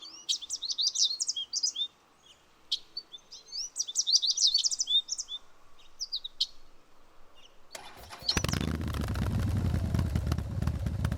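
Birds chirping and singing in short trilling phrases, then about eight seconds in motorcycle engines start up suddenly and keep running loudly.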